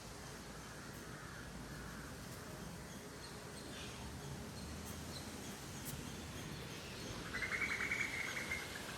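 Birds calling. About seven seconds in comes the loudest sound, one bird's rapid, chattering trill lasting under two seconds, over fainter calls earlier and a low background rumble.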